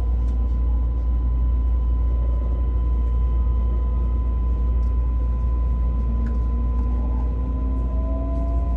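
Keisei Skyliner express train running, heard from inside the passenger car: a steady, heavy low rumble, with a faint whine rising in pitch over the last few seconds.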